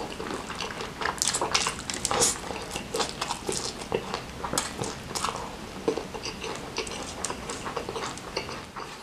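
Close-up chewing and lip-smacking as a mouthful of Indomie fried noodles and chicken is eaten by hand: a steady stream of short, wet clicks.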